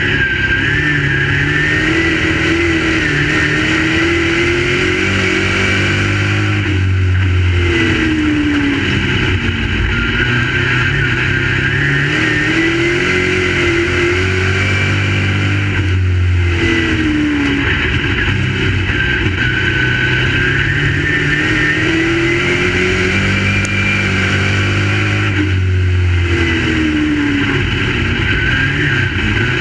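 Crate late model race car's V8 engine at racing speed, its pitch climbing and then dropping in a cycle that repeats about every nine seconds, lap after lap.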